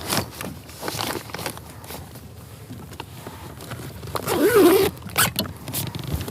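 Cooler bag zipper being worked, with rasping strokes and handling clicks. A short pitched sound, like a grunt, a little over four seconds in.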